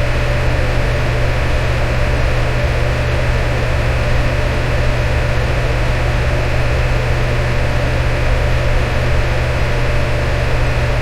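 Electric fan running steadily: an even rush of air over a strong, unchanging low hum.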